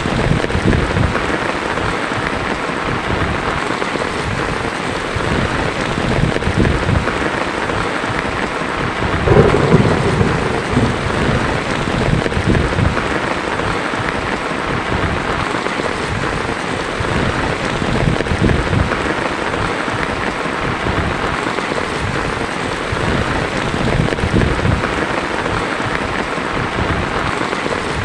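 Heavy rain drumming steadily on a tin roof. A louder burst of thunder rumbles about a third of the way through.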